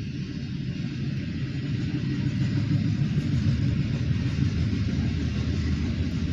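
Norfolk Southern double-stack intermodal freight train rolling past, a steady low rumble of the stack cars' wheels on the rails that grows a little louder over the first couple of seconds.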